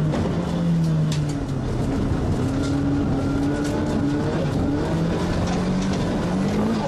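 Nissan S15 Silvia race car's engine under hard driving, heard from inside the stripped cabin. Its note climbs, drops about a second in and again about four seconds in, then climbs again, over loud road noise.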